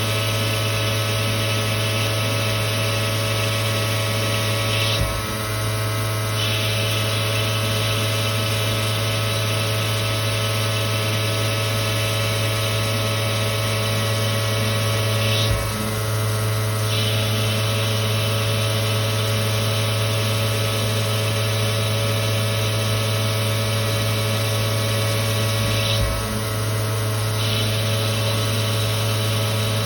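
2007 Victor V-Turn 36 CNC lathe running with a steady mechanical hum. A short knock sounds three times, about ten seconds apart, each followed by a brief change in the machine's sound.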